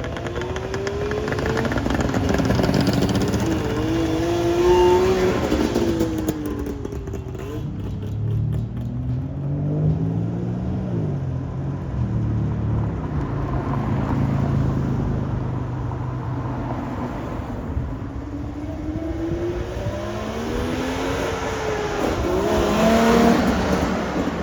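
Classic cars driving past one after another, in three main passes: early on, about halfway and near the end. Each engine note climbs and then falls away as the car goes by.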